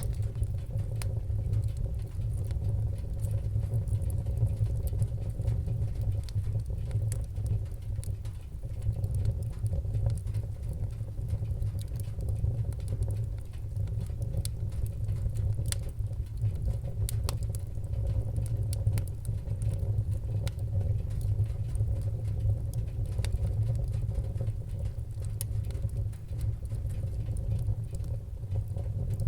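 Wood fire burning in a fireplace: a steady low rumble with many small crackles and pops scattered throughout.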